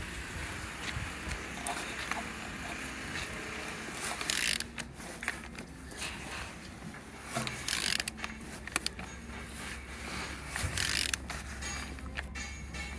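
A removed car engine being turned over by hand: irregular mechanical clicks and ratchet-like ticks as the crankshaft rotates. It turns freely and shows compression on every cylinder.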